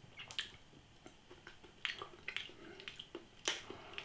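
Close wet mouth sounds of someone chewing a mouthful of ramen: a string of irregular soft smacks and clicks.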